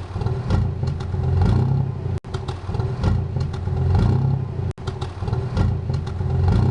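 Dodge R/T's exhaust note as the engine runs, with the revs swelling and easing repeatedly. The sound cuts out abruptly twice, a little over two seconds in and again near the five-second mark.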